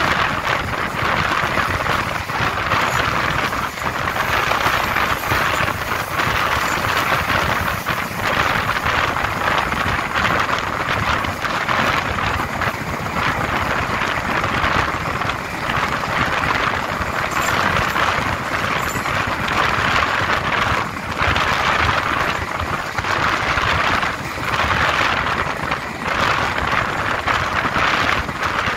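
Diesel-hauled express passenger train running at speed, heard from on board: a steady rush of wheels on the rails mixed with wind noise on the microphone.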